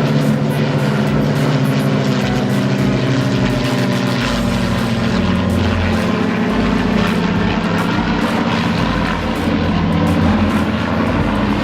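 Propeller aeroplane engine running steadily, a continuous low drone.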